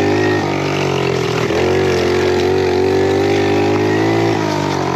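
Small pit bike's single-cylinder engine running steadily under throttle while riding, with short dips in engine pitch about half a second in, about a second and a half in, and again near the end.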